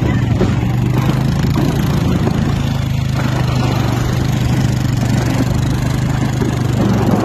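A vehicle engine running at a steady, even speed with a constant low hum.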